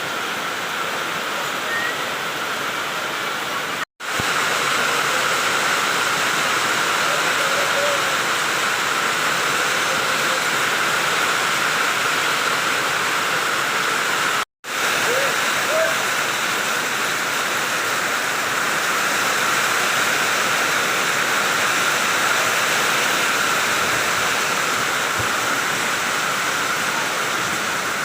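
Heavy rain pouring down steadily, a dense hiss of falling water. It drops to silence abruptly for a split second twice.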